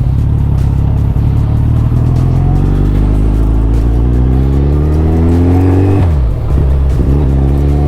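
2023 Suzuki Hayabusa's inline-four engine under acceleration: the engine note climbs steadily for several seconds, dips sharply at a gear change about six seconds in, then pulls again.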